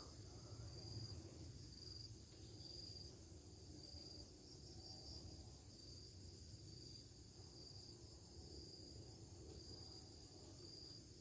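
Faint insects chirping in short, high-pitched pulses about once a second, over a low rumble.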